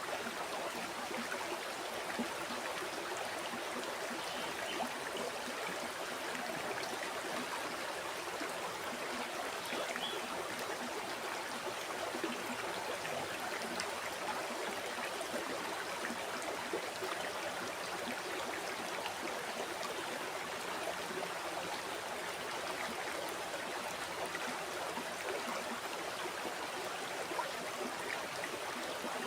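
River water flowing steadily over rocks, an even rushing and babbling with small splashes.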